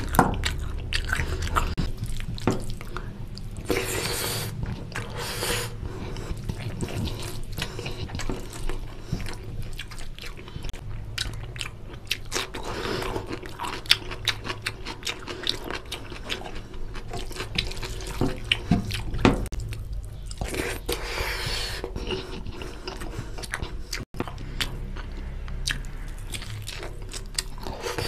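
Close-miked chewing and lip smacking of rice and chicken curry eaten by hand, with wet squelching as fingers mix rice into oily gravy on the plate.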